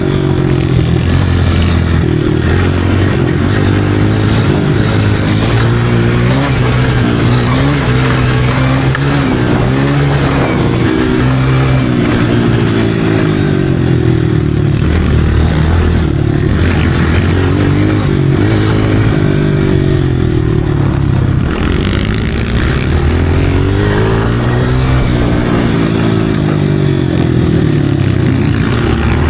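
Motocross dirt bike engine being ridden, its pitch repeatedly rising and falling with the throttle and gear changes.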